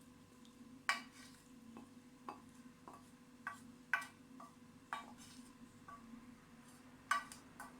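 A spoon knocking and clinking against a cooking pot in irregular light knocks, about ten in all, as cooked chicken meatballs are moved into a sauce. A faint steady hum runs underneath.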